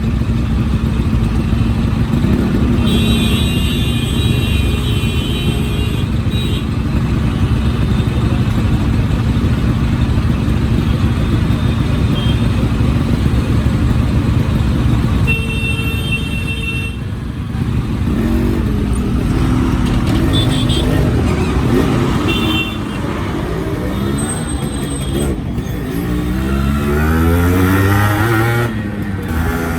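Yamaha RX two-stroke motorcycle engine running, its pitch rising and falling repeatedly in the second half as the throttle is opened and closed. A few short high tones come through twice along the way.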